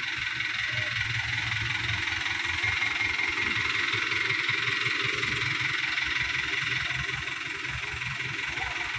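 Diesel engine of a Hino Dutro dump truck running steadily, with a loud steady hiss over its low rumble.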